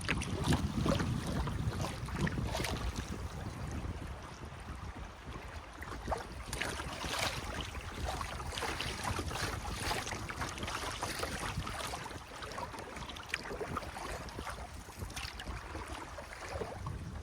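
Water splashing and trickling around a kayak as it is paddled, with irregular splashes from the paddle and some wind buffeting the microphone.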